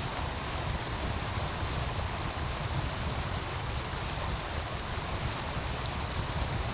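Steady rushing of a meltwater stream under a low rumble, with scattered sharp crackles and pops from a wood fire.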